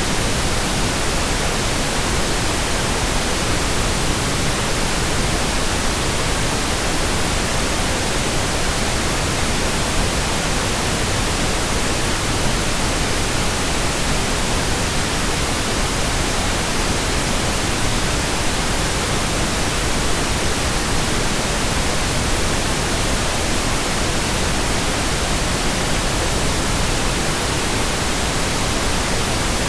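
Continuous synthetic white noise: a steady, unchanging hiss spread evenly from deep to very high pitches.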